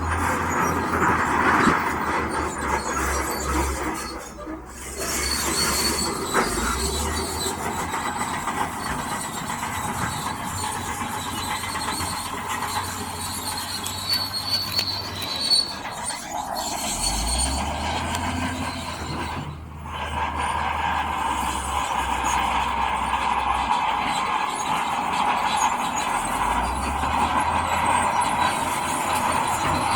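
Crawler bulldozer working: its diesel engine running steadily under load while the steel tracks squeal and rattle. The sound dips briefly twice, about four and a half and about twenty seconds in.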